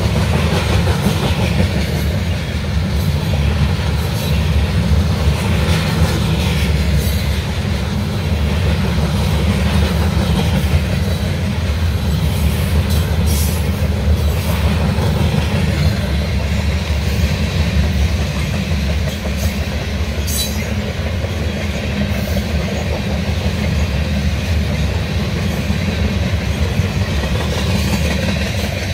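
A train rolling past at close range: a steady, loud rumble that runs on without a break, with a few brief sharp clicks about halfway through and again about two-thirds of the way in.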